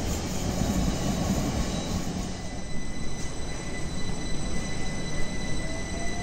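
A train moving through the station with a steady low rumble; a steady high-pitched whine comes in about two and a half seconds in, and a faint rising tone sounds near the end.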